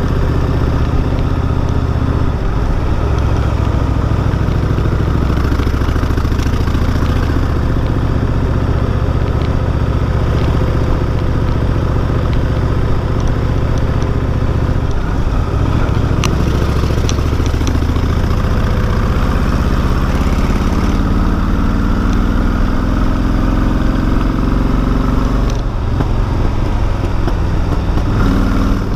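Cruiser motorcycle's engine running steadily while riding. Its note climbs steadily for several seconds as it accelerates, then drops suddenly near the end at a gear change.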